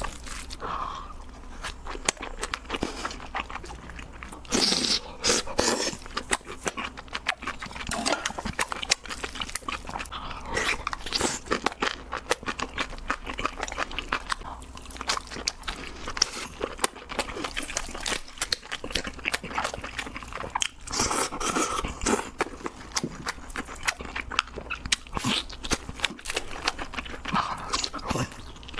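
Close-miked eating of giant crab: shells cracking and crunching, with chewing, in an irregular stream of sharp crackles.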